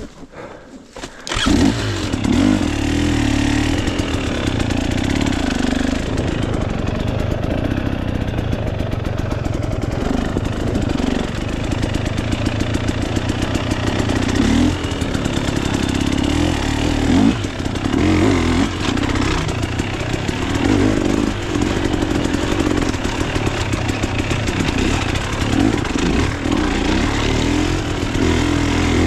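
Dirt bike engine catching about a second in, then running loud and revving up and down as the bike is ridden.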